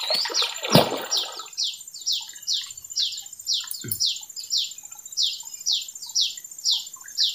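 A hooked giant snakehead splashes at the surface during the first second and a half, with one loud slap. Over it a bird calls steadily: a quick series of short high notes, each falling in pitch, about three a second.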